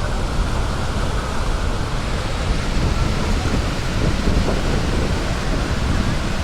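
Steady rushing roar of a large waterfall: a dense, even noise, heaviest in the deep range, with no breaks.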